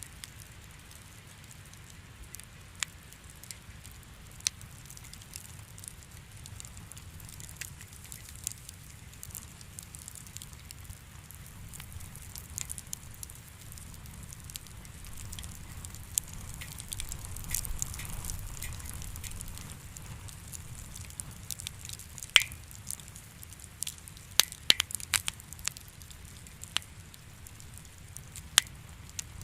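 Wood fire crackling in a fireplace: a steady hiss over a low rumble, with scattered sharp pops and snaps that come thickest and loudest in the last third.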